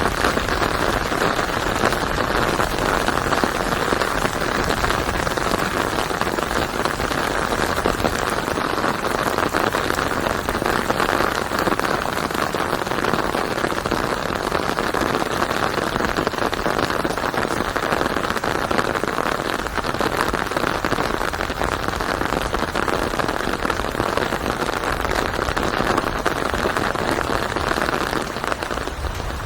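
Steady rain falling on a surface: a dense, even patter of drops, loudest in the middle range, easing slightly near the end.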